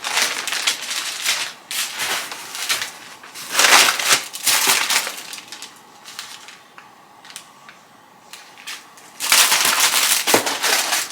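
Packaging being handled and crinkled, in irregular rustling bursts: loud for the first few seconds, quieter with a few small ticks in the middle, then a loud crinkling burst again near the end.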